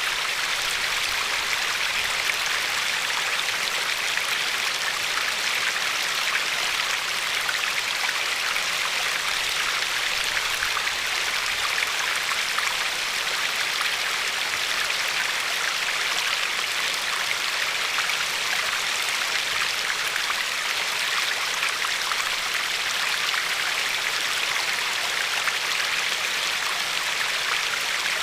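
Glacier-fed river flowing and lapping along a pebbly shore: a steady, even rushing of water with no breaks or separate splashes.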